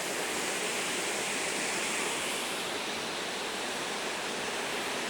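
Steady rushing of a mountain stream's flowing water, even and unbroken.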